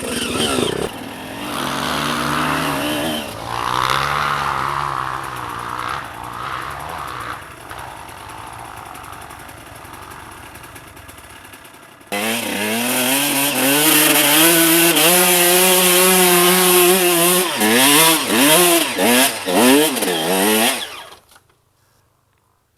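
Enduro dirt-bike engine revving up and down under load. About 12 s in it becomes suddenly louder and closer, held at high revs with several quick blips of the throttle, then cuts off abruptly.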